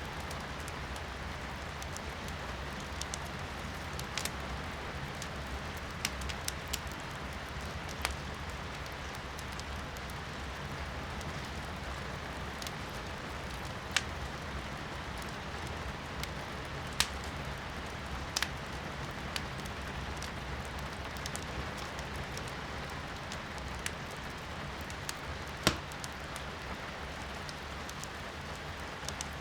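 Firewood burning in a fireplace, crackling with sharp, irregular pops, the loudest near the end, over the steady hiss of rain.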